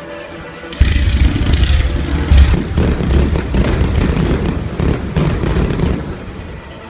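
Fireworks going off in a rapid barrage: about a second in, a dense run of bangs and crackles starts, with a heavy low boom under it, and it thins out near the end.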